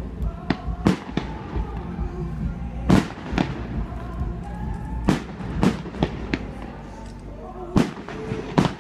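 Fireworks display: aerial shells bursting in about seven sharp bangs at uneven intervals, over a low rumble.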